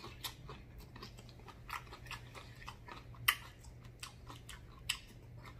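Close-up chewing of a mouthful of steak quinoa bowl: soft, scattered wet smacks and clicks of the mouth, with one sharper smack about three seconds in.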